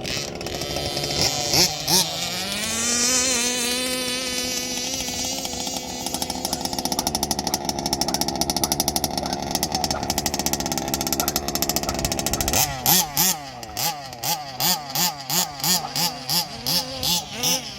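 Rebuilt Zenoah G320RC 31.8cc two-stroke engine with an ESP race-ported top end, powering a large-scale petrol RC buggy. It revs up about a second in and holds high revs steadily. From about two-thirds through it revs up and down in quick blips, about twice a second.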